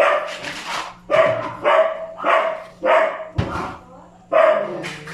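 A dog barking over and over, a short bark every half second or so, with one dull thump about three and a half seconds in.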